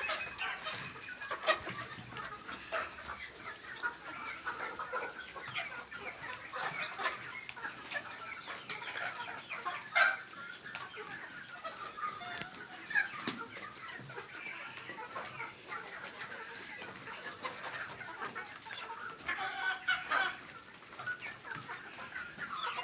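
A flock of Sonali chickens clucking and calling over one another, with a few sharp clicks among them.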